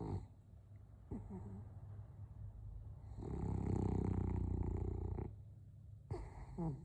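French bulldog snoring: short rattly snorts near the start and end, and one long, buzzing snore starting about three seconds in and lasting about two seconds, the loudest sound here.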